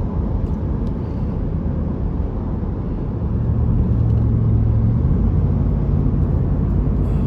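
Car engine and road rumble while driving in highway traffic; the engine hum grows louder about three seconds in and rises a little in pitch shortly after.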